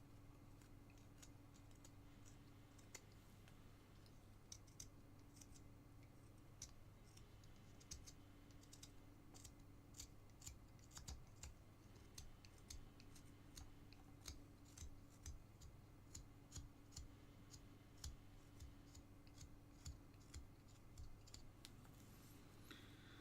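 Faint, short snicks and scrapes of a carving knife cutting into basswood, irregular and coming about one or two a second, over a steady low electrical hum.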